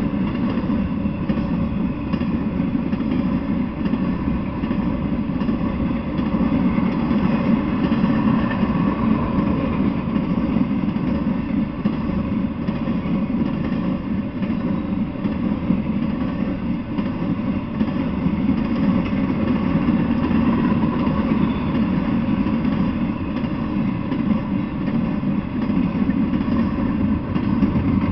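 Intermodal freight train rolling past, its steel wheels running on the rails in a steady, even rumble with faint ringing tones above it.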